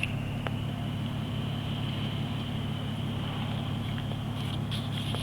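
Car engine idling, heard from inside the cabin: a steady low hum with a thin steady high whine above it and a few faint clicks.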